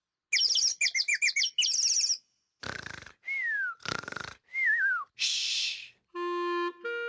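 A quick string of cartoon sound effects: rapid bird-like chirps and twitters, short noisy bursts, two falling whistle glides with the second one wobbling, a brief hiss, then short stepped musical notes near the end.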